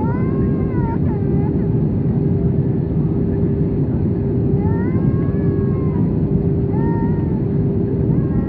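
Steady Airbus A320 cabin noise during descent, with a constant hum under it. Three short, high wailing cries that rise and fall in pitch cut through it: one at the start, one about four and a half seconds in, and a shorter one about seven seconds in.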